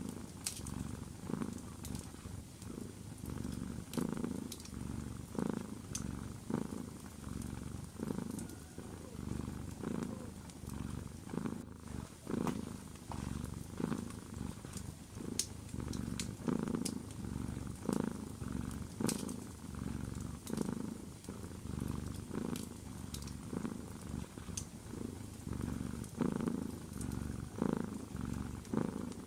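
A domestic cat purring steadily, its purr swelling and fading with each breath in and out. Scattered sharp crackles from a wood fire in a fireplace sound over it.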